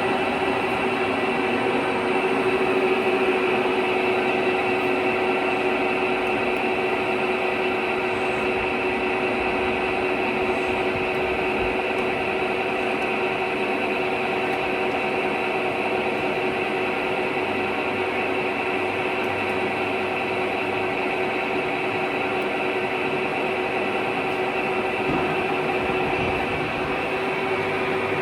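Weipert big-bore boring lathe running steadily, a constant machine hum with a held tone and no change in speed.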